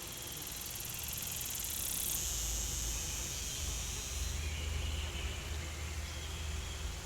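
Snake hissing sound effect: a hiss that is strongest from about two to four and a half seconds in, over a soft outdoor ambience with a low rumble.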